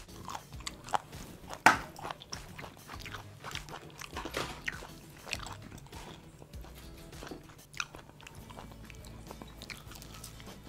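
A person biting and chewing crispy fried chicken close to the microphone: irregular sharp crunches of the fried coating, the loudest about two seconds in, over quiet background music.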